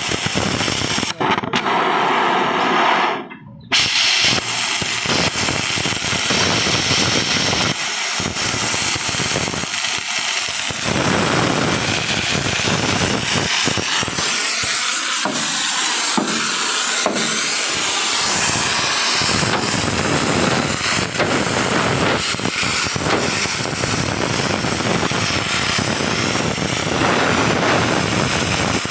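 Power tool working on a truck's steel frame during riveting: a loud, continuous hissing rattle that breaks off briefly about three seconds in, then runs on.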